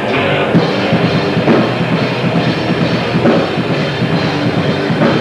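Grindcore band playing live at full volume: distorted guitars and bass over fast, dense drumming.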